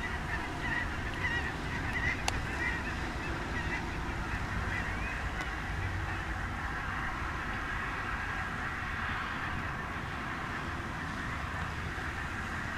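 Waterfowl giving short, wavering honking calls, several in the first five seconds or so, over a steady low rumble, with a single sharp click about two seconds in.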